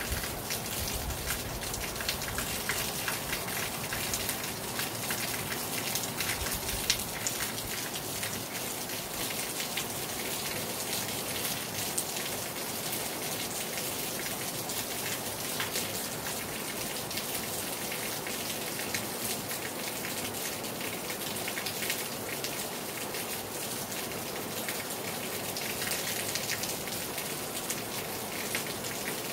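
Heavy rain falling hard on a terrace: a dense, steady hiss of rain with many single drops pattering sharply on the surface.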